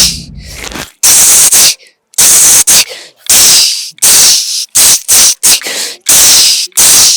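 Vocal mimicry of ghungroo ankle bells jingling: a man makes a run of about a dozen hissy 'chh' bursts with his mouth, some long and some clipped short, in an uneven dancing rhythm.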